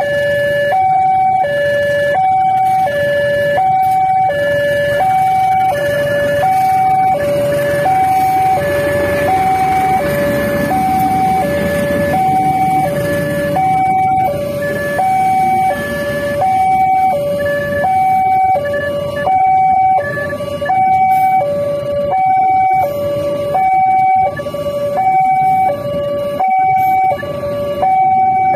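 Railway level-crossing warning alarm sounding continuously: an electronic two-tone signal alternating high and low, about once a second, warning that a train is approaching. A low rumble swells and fades through the middle.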